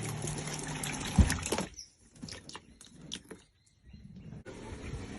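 Water from the 12-volt pump's hose pouring into a container, with a steady low hum and a loud thump about a second in. It cuts off abruptly before two seconds in, followed by a few faint clicks and then a steady outdoor hiss.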